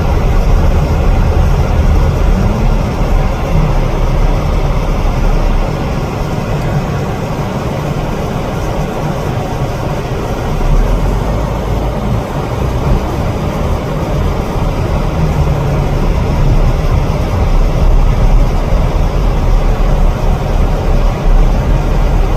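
Car driving, with a steady low rumble of engine and road noise that eases a little partway through and builds again.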